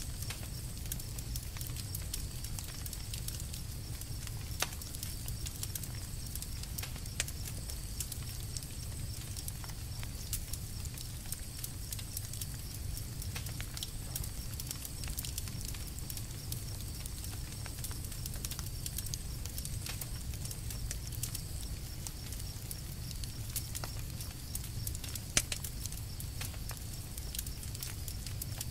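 Campfire crackling: a steady low rumble with constant small crackles and a few sharper pops, one near the end louder than the rest.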